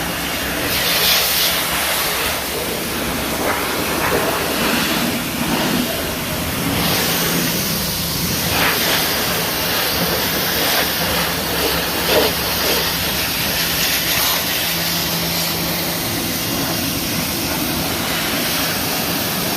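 Oasser CW8 electric pressure washer running, its high-pressure water jet hissing and splashing over a car's engine compartment, with the pump motor's steady hum underneath. The hiss of the spray swells and fades as the jet moves across different surfaces.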